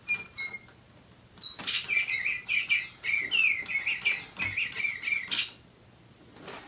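Spin Master Digibirds electronic toy birds tweeting: a few short chirps, a brief pause, then a fast run of chirps for about four seconds that cuts off suddenly.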